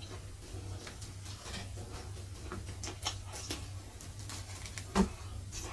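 Close-miked mouth sounds of a person eating fried spleen with his hands: a run of small wet chewing and lip clicks over a low steady hum, with one louder knock about five seconds in.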